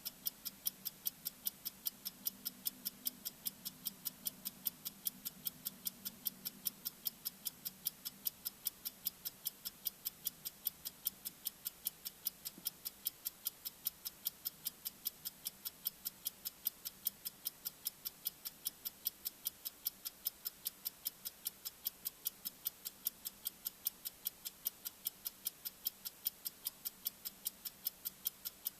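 Bomb-timer sound effect ticking: sharp, high-pitched ticks at an even, steady rate.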